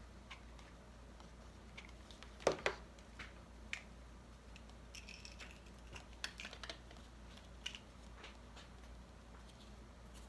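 Scattered small clicks, taps and rustles of paper craft materials being handled, the loudest pair about two and a half seconds in.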